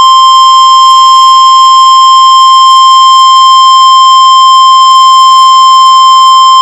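NOAA Weather Radio warning alarm tone: one loud, steady, unbroken tone near 1 kHz, the alert that comes before a severe thunderstorm warning is read out.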